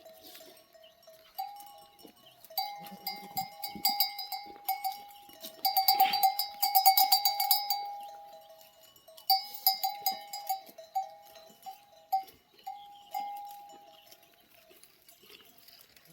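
Bells on grazing sheep and goats clanking irregularly, at least two different pitches ringing. The clanking is busiest and loudest about six to eight seconds in, then thins out toward the end.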